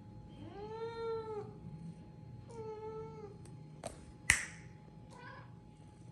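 A cat meows twice: a long meow rising then falling, then a shorter one. About four seconds in comes a sharp crack, the loudest sound here, with a couple of fainter clicks around it.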